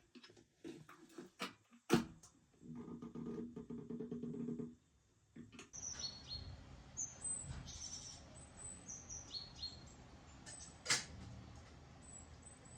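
A few sharp knocks, then a steady low pitched sound for about two seconds, followed from about the middle on by small birds chirping in short, high notes, with one more sharp click near the end.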